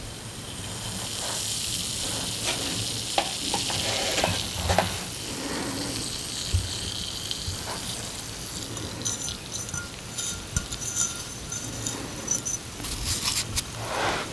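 Pieces of bath bomb fizzing in a little water: a steady, high sizzling hiss that builds up over the first second or two, with small crackles and scattered clicks through it.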